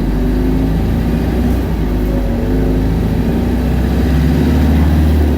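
Isuzu Erga city bus's diesel engine running under way, heard from inside the cabin. Its pitch shifts several times, and a deep low drone grows stronger near the end.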